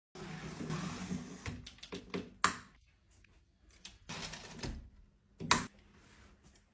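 Tape measure blade running with a rattling whir, then snapping home against the case with a sharp click; this happens twice.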